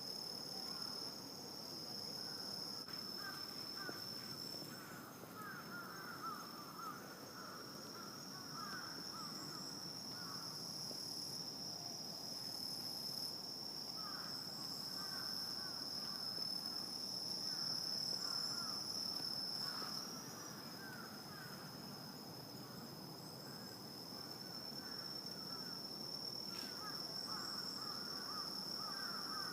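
Night insects, crickets, trilling in one unbroken high-pitched tone, under a lower chatter of quick repeated calls that comes and goes.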